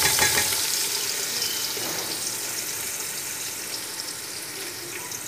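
Chopped bitter gourd sizzling in hot oil in a steel pot, a loud even hiss that slowly dies down as the first burst of frying settles.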